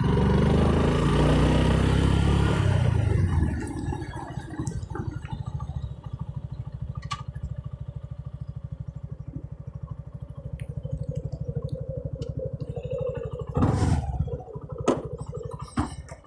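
Suzuki Gixxer SF's single-cylinder engine: the bike rides in with wind noise for a few seconds, then slows to a stop and idles with a steady, fast, even pulse. A short clatter comes near the end.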